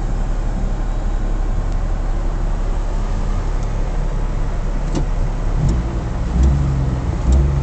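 Daewoo Tico's small three-cylinder engine idling steadily, with a few faint clicks. About five and a half seconds in, the idle note deepens and grows louder, swelling twice.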